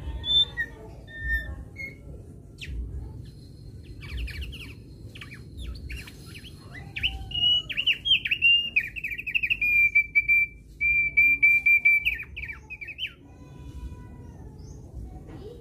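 Thick-billed heleia (opior paruh tebal) singing: a few scattered chirps, then a long fast run of sharp, repeated notes that grows loudest in the middle and stops a couple of seconds before the end. A low steady rumble runs underneath.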